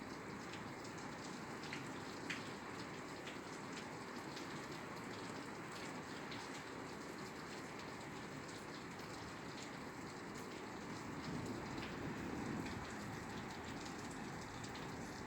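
Steady rain falling on a roof, with individual drops ticking sharply over the even hiss, growing a little heavier about three-quarters of the way through.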